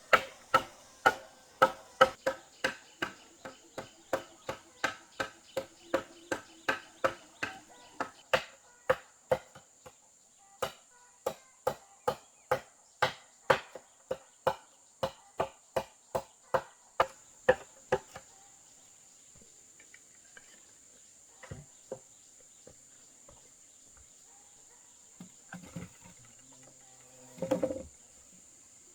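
Hand-tool strikes, about two blows a second, in a steady rhythm such as hammering or chopping. They stop about 18 seconds in, leaving an insect's steady high buzz, a few scattered knocks and one louder short sound near the end.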